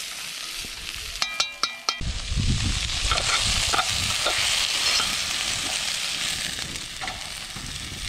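Onions and root vegetables frying in a hot pot over a campfire, a steady sizzle. About a second in come a few short ringing clinks, then the sizzle grows louder for a few seconds before easing.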